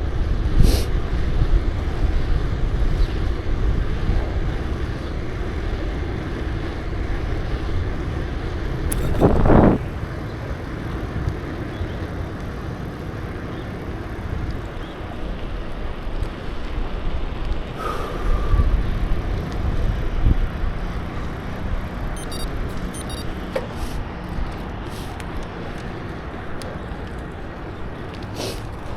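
Road and traffic noise heard from a moving bicycle: a steady low rumble, with a louder swell that builds to about nine seconds in and then drops off sharply, and a few light clicks later on.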